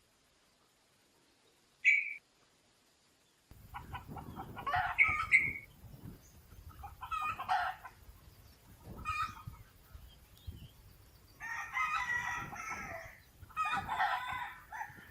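Red junglefowl calling: a run of about five crowing and clucking phrases spaced about two seconds apart, the longest near the end. Before these, a single short bird chirp sounds about two seconds in.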